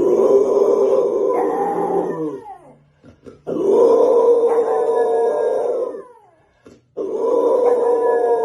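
A dog howling in three long, loud calls, each sliding down in pitch as it ends.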